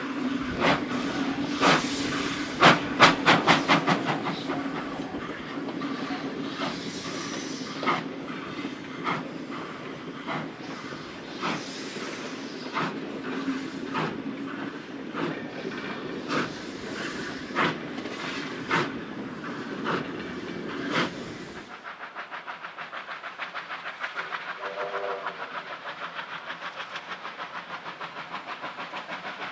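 A train running over jointed rails: wheels click over the rail joints roughly once a second above a steady hum, with a quick run of loud clicks a few seconds in. About two-thirds of the way through, the sound changes abruptly to a fast, even pulsing.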